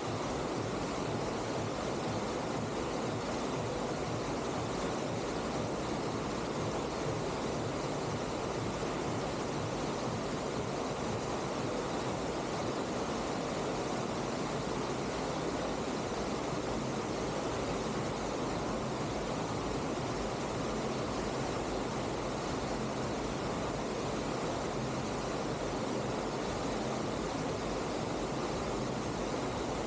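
Steady rushing of water pumped across a surf machine, an even roar with no break.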